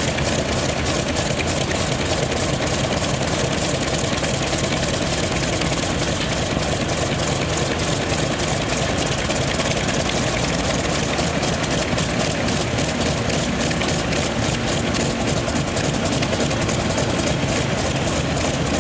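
Focke-Wulf Fw 190A-5's 14-cylinder twin-row radial engine running steadily at idle during its warm-up, with a fast, even firing pulse.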